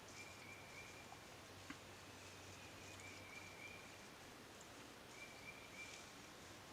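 Faint outdoor ambience in which a small bird gives runs of three or four short, high notes at one pitch, repeated a few times, over a steady hiss, with one small click.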